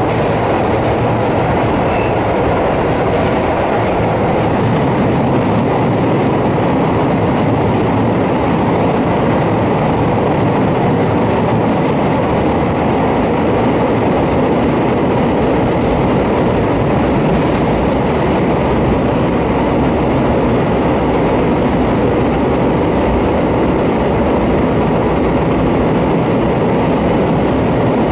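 Steady running noise of a Kobe Electric Railway train, heard from inside the car, as it climbs the line's steep mountain grade and passes into a tunnel.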